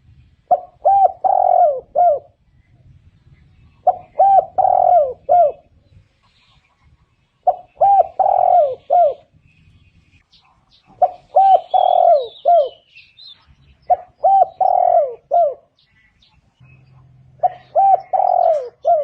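Spotted dove cooing: six phrases, repeated about every three and a half seconds. Each is a few short coos with a longer rolling coo in the middle.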